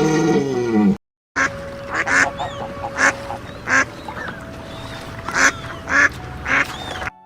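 Ducks quacking: about seven short, loud calls spread over some six seconds. Before them, in the first second, the tail of a different animal's drawn-out call cuts off.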